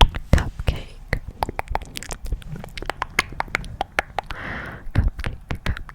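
ASMR mouth sounds close to the microphone: a quick, irregular run of wet clicks and smacks, with a short breathy hiss about four and a half seconds in.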